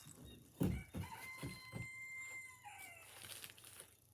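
A rooster crowing: one call of about two seconds, steady in pitch and then falling away at the end. A few dull thumps sound just before and under the start of the crow.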